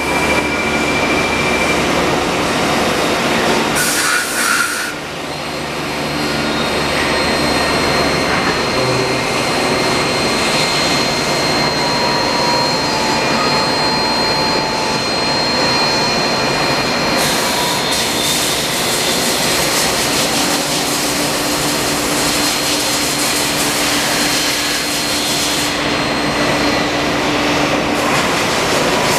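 Spinner TC-600 CNC lathe running: steady loud machine noise with faint steady whining tones, and a brief hissing surge about four seconds in before the level settles back.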